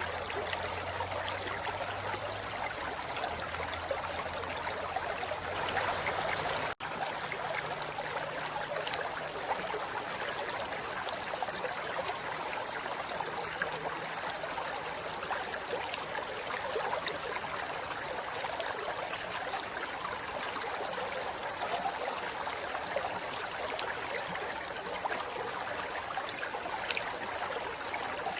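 Forest river flowing over rocks: a steady rush of water with trickling and splashing. The sound cuts out for an instant about seven seconds in, then carries on.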